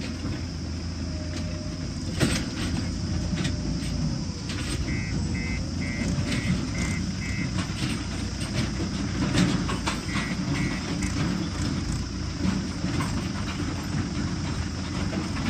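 Diesel machinery engine running steadily, with scattered clanks and knocks. Two runs of short, evenly spaced high beeps sound about a third of the way in and again past the middle.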